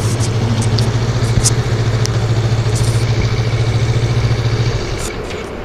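A motor vehicle's engine idling with a steady low hum that stops about five seconds in. A few light clicks are heard over it.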